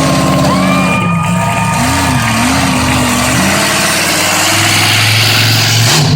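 Monster truck's large engine running loudly at a steady idle, its pitch wavering briefly a couple of seconds in.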